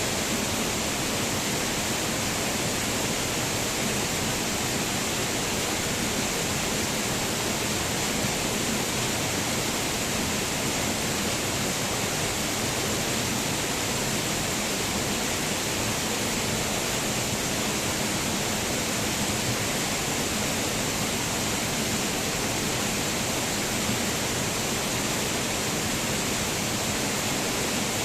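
Waterfall: a steady, unbroken rush of falling water, even in level throughout, with a bright hiss on top.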